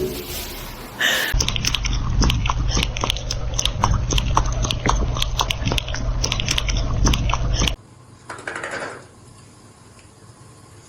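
Close-up chewing and crunching, many quick irregular crunches, likely a cat eating. It stops abruptly about eight seconds in, and a quieter scene follows.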